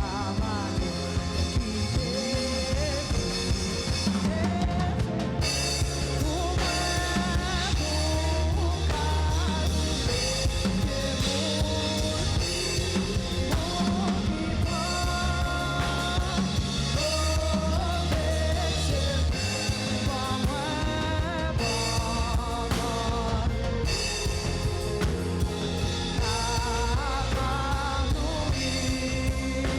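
Live church band music: drum kit keeping a steady beat under bass, with a wavering melodic lead line.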